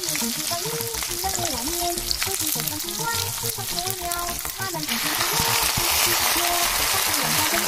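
Potato pancakes frying in hot oil in a pan, a steady sizzle that grows louder about five seconds in. Background music with a melody plays over it.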